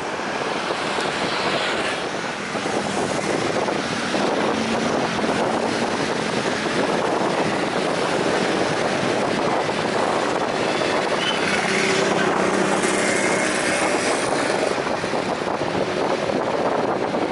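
Jet airliner engines running loud and steady: a broad rushing roar with faint tones drifting in pitch through it.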